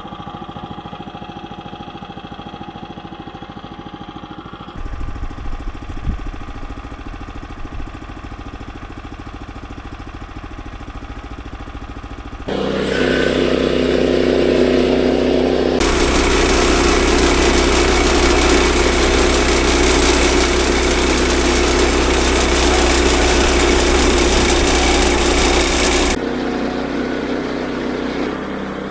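The 9.5 hp gas engine of a Woodland Mills HM122 band sawmill idling steadily, then throttled up about halfway through. It runs much louder and harsher for about ten seconds before easing back a little near the end.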